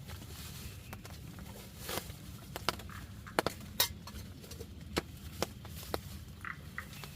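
Irregular light knocks and clinks, a handful of sharper ones near the middle, over a low steady rumble.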